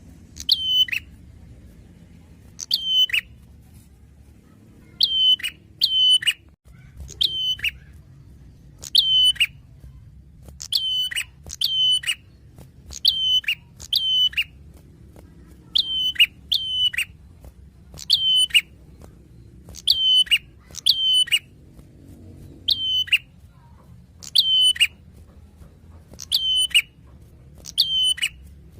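Prinia (prenjak) calling: short, sharp chirps, each dropping quickly in pitch, repeated every second or two and often given in pairs, as a song-tutor recording.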